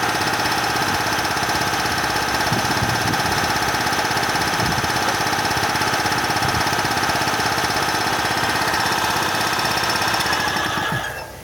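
Bauer 330-bar high-pressure air compressor running steadily with a knocking, engine-like mechanical drone, then shutting down and falling quiet near the end.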